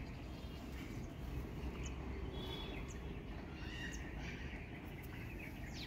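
A few short, faint bird chirps over a steady low outdoor background noise.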